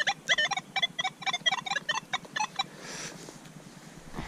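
Handheld metal-detecting pinpointer beeping rapidly, about five chirps a second, as it sits over a metal target. The beeping stops about two and a half seconds in, followed by soft rustling of soil.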